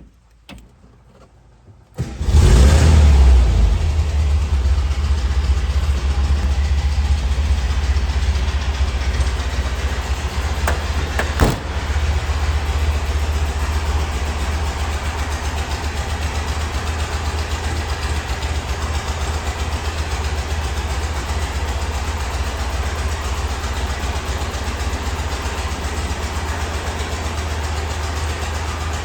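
1977 Volkswagen Westfalia's air-cooled flat-four engine on a cold start: a few faint clicks, then it catches about two seconds in, runs loudest for a second or so, and settles into a steady idle. A short sharp knock comes about eleven seconds in.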